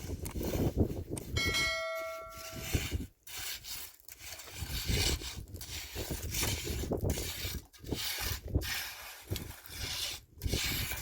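A single bell-like metallic ring about a second and a half in, sounding for about a second, over uneven rumbling noise.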